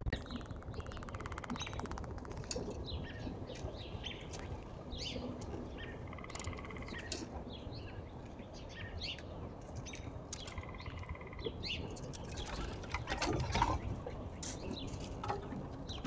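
Small birds chirping and calling over and over, with a few short buzzy rattles among the chirps and a brief flurry of wingbeats about thirteen seconds in.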